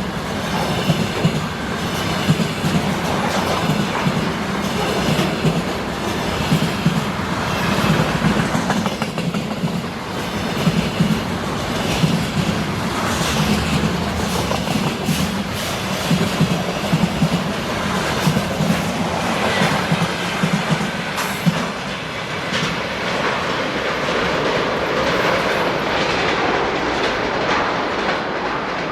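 Freight train wagons rolling past close by, their wheels clacking steadily over the rail joints, with a faint squeal now and then.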